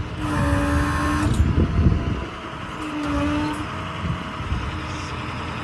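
The hydraulic crane on a service truck is being run off its diesel engine. A steady whine from the crane's hydraulics comes on twice, about a second each time, as the control button is pressed, over the engine's running rumble.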